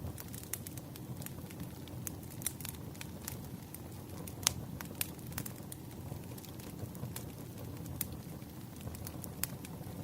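Campfire burning: wood crackling and popping at irregular intervals over a steady low rumble of flames, with one sharper pop about halfway through.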